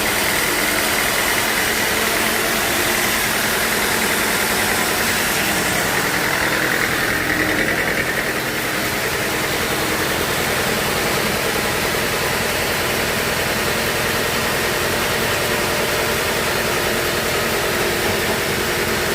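Sawmill machinery running steadily, a loud even mechanical drone.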